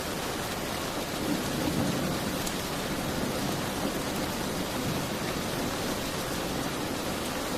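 Steady, dense rain falling, with a low rumble that swells briefly about a second in.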